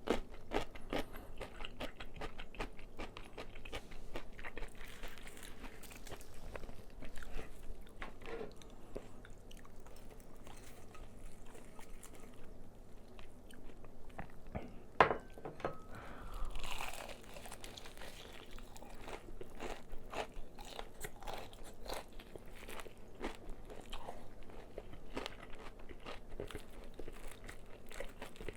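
Crispy fried chicken being bitten and chewed close to the microphone: a steady run of crunches, with one sharp, loud crunch about halfway through.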